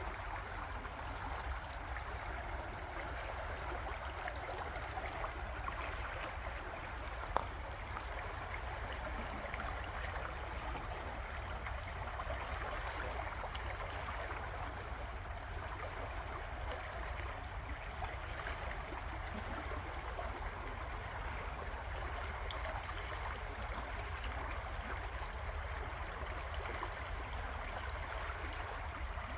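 River water flowing steadily, a continuous even rushing, with a single brief sharp click about seven seconds in.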